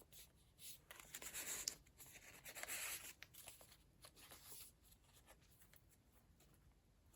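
Faint rustling of the paper pages of a handmade junk journal being turned and handled, with two louder page swishes about one and three seconds in.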